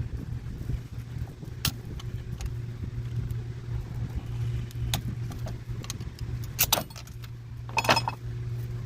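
Metal parts of a Whirlpool washer's transmission brake assembly clinking and rattling as they are handled and taken apart, a few separate clinks with a short cluster near the end, over a steady low hum.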